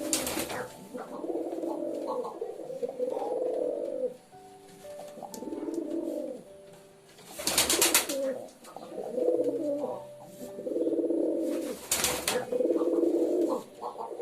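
Domestic pigeons cooing: repeated low, bubbling coo phrases, one after another, with three short noisy bursts cutting in near the start, about halfway through and near the end.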